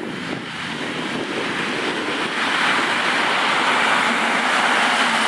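EN57AL electric multiple unit running past, a rushing noise of wheels on rail that grows steadily louder as it draws near.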